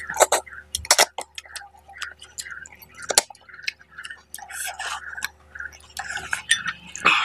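Close-miked wet chewing of a mouthful of fish curry and rice, in an even rhythm of about two to three chews a second, with sharp smacking clicks. A louder squelch near the end as a hand digs into the curried rice.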